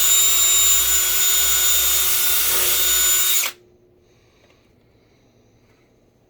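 Power drill spinning up and boring a pilot hole for a table stand's mount screw, running steadily for about three and a half seconds, then stopping abruptly.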